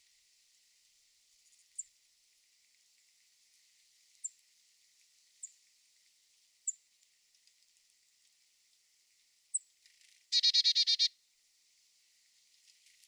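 Garden songbirds: single short, high chirps every second or two, then, near the end, a loud rapid trill of about ten notes lasting under a second.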